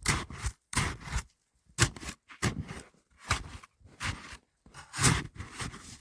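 Repeated scraping, crunching strokes in hard, icy snow as it is dug or sawn by hand, about eight strokes a little over one a second.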